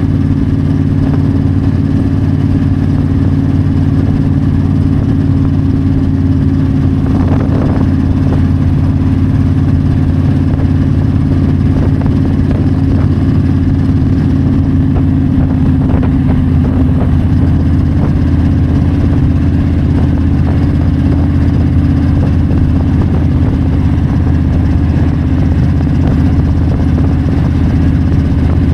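Yamaha V-Star 1300's V-twin engine running at a steady cruising speed, heard from the rider's seat with wind rush. The engine note holds steady, with a slight shift in pitch a little past halfway.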